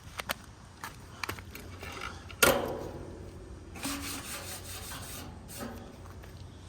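Rustling and scraping handling noise with a few small clicks and one sharp knock about two and a half seconds in, over a steady low hum.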